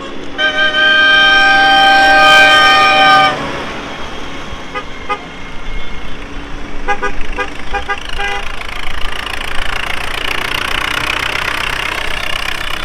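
A vehicle horn sounds one long steady blast for about three seconds, then a run of short quick beeps, as engine noise swells towards the end.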